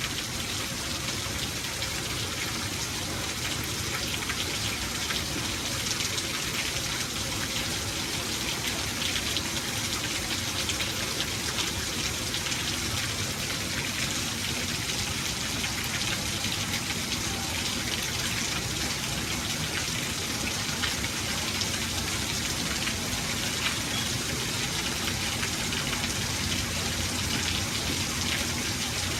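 Steady rainfall, a dense even patter of drops with no thunder.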